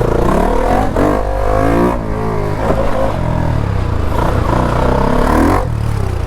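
Motorcycle engines running and revving, the pitch sweeping up twice: about a second in and again near the end.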